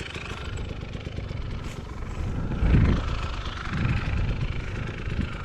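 Enduro motorcycle engine running at fairly low revs, swelling with throttle about halfway through and again a little later.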